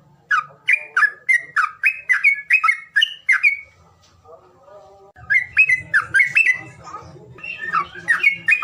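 A songbird singing runs of quick, loud, repeated sweeping notes, about three a second, in two bursts with a pause of over a second between them.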